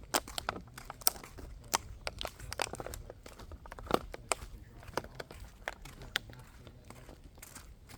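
Scattered crunches and crackling clicks at irregular intervals over a low rumble, the loudest about four seconds in.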